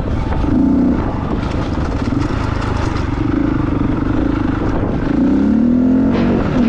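Dirt bike engine running while riding, its note rising and falling with the throttle and climbing about five seconds in.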